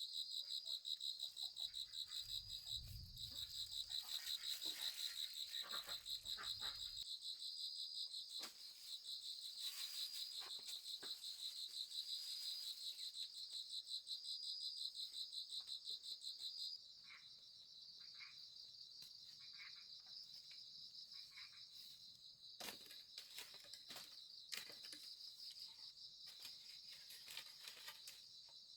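Night insects, crickets or similar, trilling steadily in a fast pulsing chorus. The chorus drops suddenly in level a little over halfway through, with faint scattered clicks and rustles.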